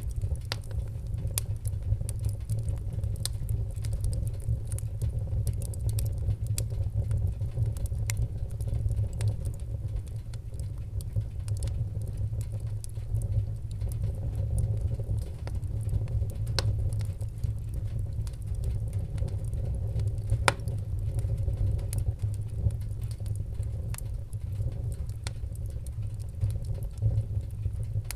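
Fireplace wood fire burning with a steady low roar and frequent sharp crackles and pops scattered throughout.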